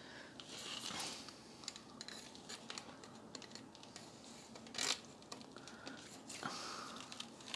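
Faint plastic clicks and rustling from the Dyson DC33's hose being handled while a lodged object is worked loose, with one sharper click about five seconds in.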